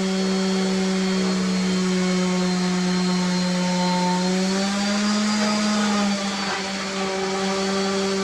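An electric motor running steadily with a loud hum. Its pitch rises slightly about halfway through and drops back a little later.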